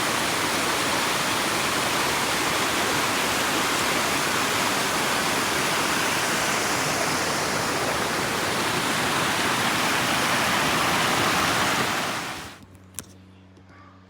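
Cascades of a waterfall rushing steadily and loudly. About twelve and a half seconds in, the sound cuts off abruptly to a much quieter scene with one sharp click.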